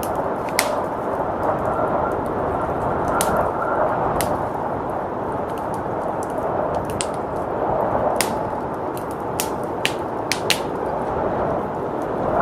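Wood fire crackling with irregular sharp pops, more of them in the second half, over a steady rushing blizzard wind.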